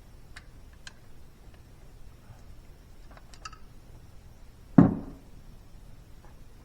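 Faint scattered clicks, then a single loud clunk about five seconds in that dies away quickly.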